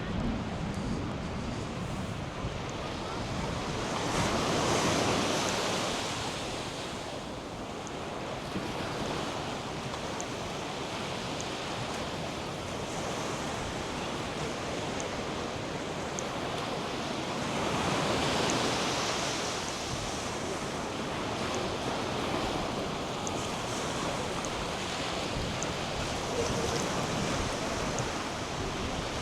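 North Sea surf washing steadily onto a sandy beach, with two louder waves breaking, about four seconds in and again about two-thirds through. Wind buffets the microphone.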